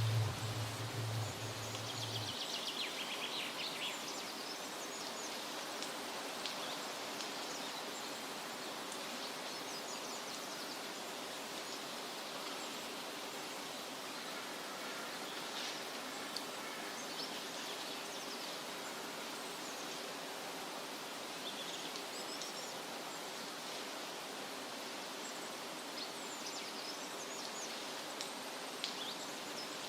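Forest ambience: a steady hiss of outdoor background noise with scattered short, high bird calls every few seconds. A low hum is heard at first and cuts off about two seconds in.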